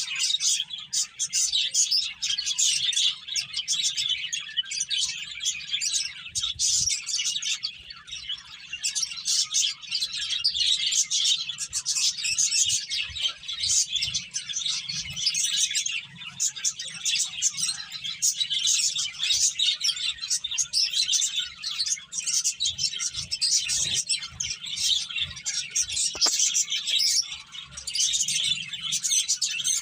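A flock of pet finches chirping nonstop, with many short high calls overlapping one another.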